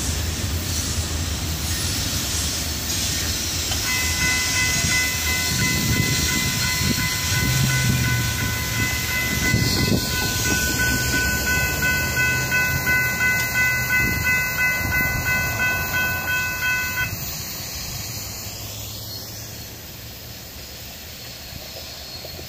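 Freight cars of a Florida East Coast rock train rolling past over the crossing, the wheels clattering on the rails. A steady high ringing tone joins about four seconds in and stops about seventeen seconds in, after which the train's sound fades as the end of the train moves away.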